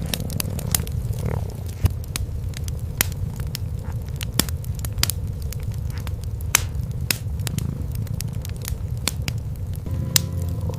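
Wood fire crackling with irregular sharp pops over the steady low purring of cats. A steady tone comes in near the end.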